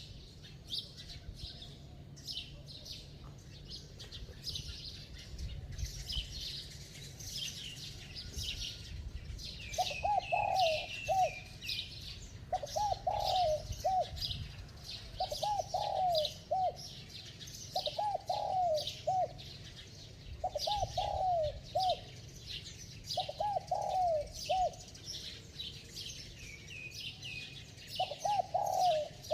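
Spotted dove cooing: a short phrase of three or four notes, repeated about every two and a half to three seconds from about ten seconds in. Continual high chirping of small birds runs underneath.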